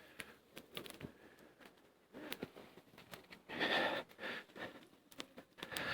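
Small campfire of birch bark and twigs crackling with scattered faint snaps. From about halfway through come a few short breathy sounds from a person close by.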